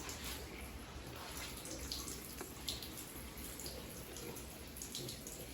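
Water running steadily, with a few faint clicks over it.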